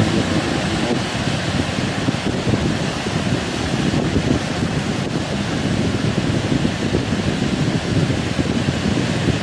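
Heavy ocean surf breaking on the shore, a loud continuous rush that swells and eases, with wind buffeting the microphone.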